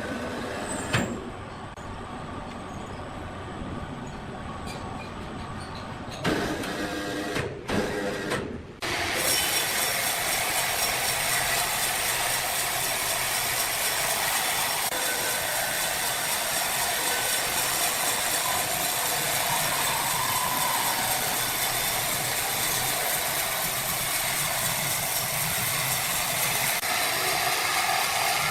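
Sawmill machinery running, a dense mechanical clatter and hum. The sound changes abruptly a few times in the first nine seconds, then holds steady and louder.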